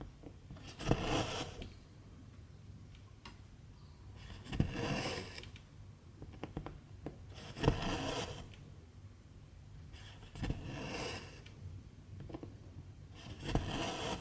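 Cross-stitch needle and silk thread pulled through 11-count fabric: five scraping swishes, one about every three seconds, each starting with a sharp tick as the needle pierces.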